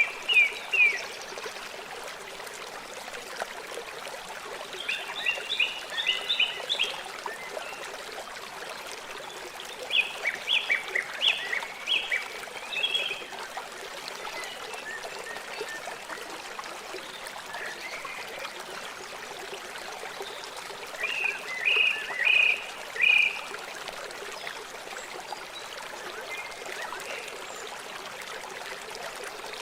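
River water flowing with a steady rushing hiss. Over it, an animal calls in short runs of quick, high notes, four times.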